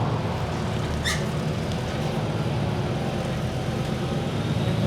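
Inside a moving city bus: steady engine hum and road noise, with a short, sharp high-pitched chirp about a second in.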